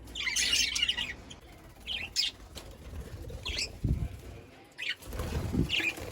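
Budgerigars chirping in short, high bursts about once a second, with two low bursts of wing flapping near the middle and toward the end.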